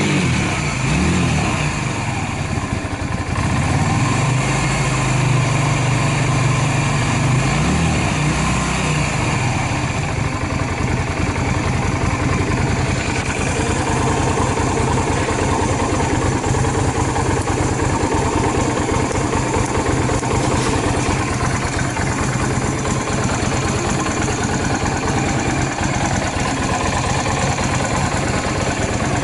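Yamaha DragStar 250's air-cooled V-twin running on fuel fed from an external jump tank; its speed rises and falls over the first eight seconds or so, then it settles to a steady idle. It runs without abnormal noises.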